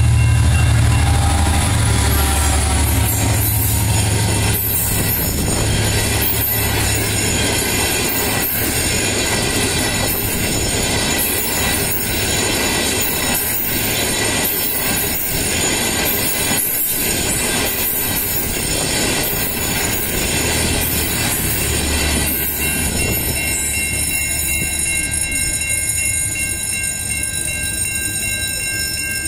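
Diesel-hauled passenger train passing close by. The locomotive's engine rumbles for the first few seconds, then the coaches roll past with a regular clickety-clack of wheels over rail joints, about once a second, under a steady high-pitched wheel squeal. It thins out near the end as the train draws away.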